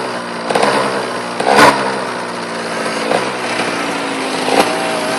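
Small KTM motocross motorcycle engine running at fairly steady revs as the bike rides along. A few sharp knocks come through, the loudest about one and a half seconds in.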